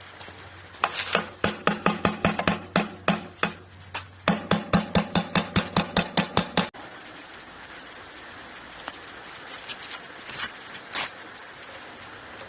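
Hammer striking metal in two quick runs of about five to six blows a second, each blow ringing. The second run stops abruptly.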